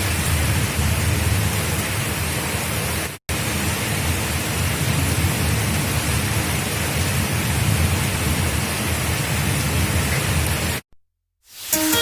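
Steady rain, a dense even hiss with a low rumble underneath. It cuts out briefly about three seconds in and stops near the end, where music begins.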